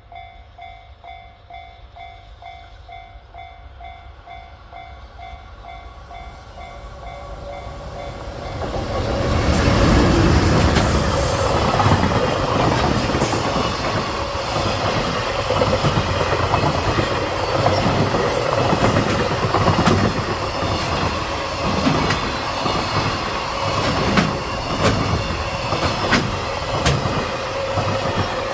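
Freight train of Koki container flatcars, hauled by an EH500 'Kintaro' electric locomotive, passing at speed; its wheels clatter over the rail joints in a steady repeating rhythm. It grows louder over the first several seconds and is loud from about nine seconds in. A pulsing ringing tone is heard before the train arrives.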